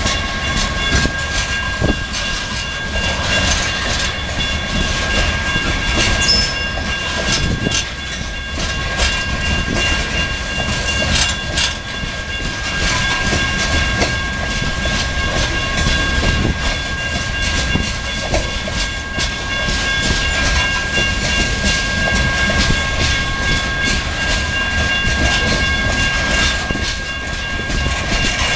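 Loaded coal hopper cars rolling past, with steady rumble and wheels clicking over the rail joints. A steady high ringing tone runs along with it.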